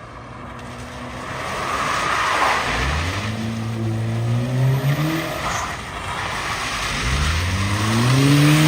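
Car engine revving hard twice, its pitch climbing each time, with tyre squeal under it as the car is driven sideways.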